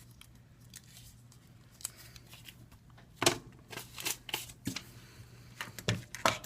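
A faint steady hum, then from about three seconds in a quick run of sharp clicks and taps as the iPad 2's parts and tools are handled on the workbench.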